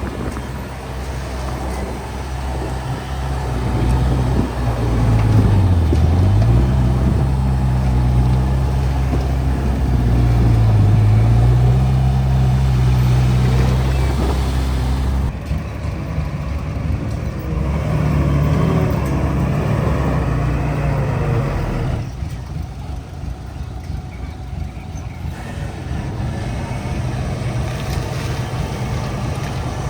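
Diesel engine of heavy earthmoving machinery running under load. Its pitch dips sharply and recovers twice in the first half, then it runs rougher and a little quieter.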